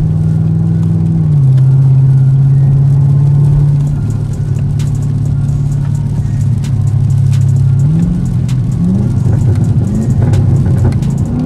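Camaro ZL1's supercharged V8 heard from the cabin, pulling steadily, then dropping in pitch a little over a second in at a gear change. Near the end come a few short rising revs, along with a scatter of light ticks.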